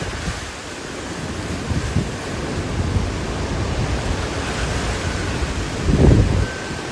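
Hurricane-force wind blowing in a steady rush, with gusts buffeting the microphone and a louder blast of buffeting about six seconds in.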